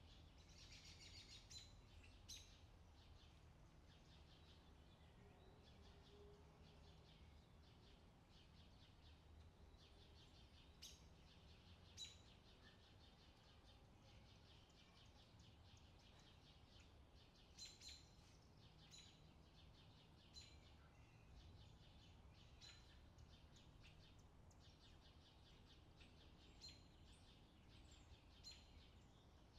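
Faint outdoor summer ambience: small birds chirping over a low steady background hum, with a few sharper chirps standing out here and there.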